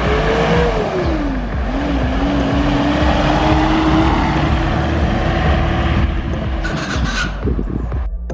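A car driving, with heavy road and wind noise. The engine note rises, falls away about a second in, then holds steady. The sound cuts off abruptly near the end.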